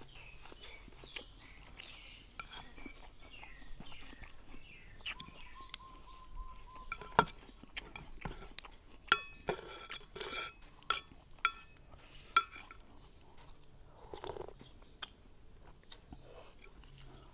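Eating a bowl of pork noodle soup: chewing, with spoon and chopsticks clinking against the bowl in scattered sharp clinks, several of them ringing on around the middle.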